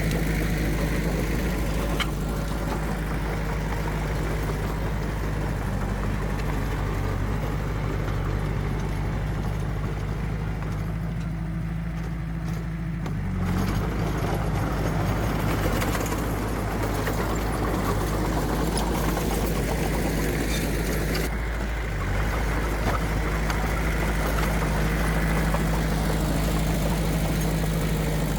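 Diesel engine of heavy earthmoving machinery running steadily, its note shifting briefly about halfway through and again later on.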